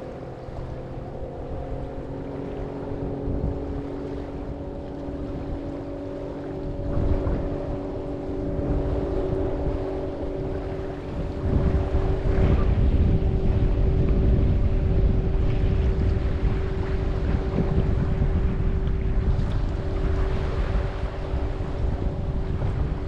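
Wind buffeting the microphone over the wash of surf, growing louder about a third and halfway through, with a steady engine drone underneath.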